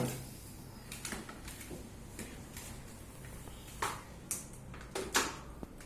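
A few light clicks and knocks from handling the vacuum cleaner's plastic brush and extension tube, with the motor off.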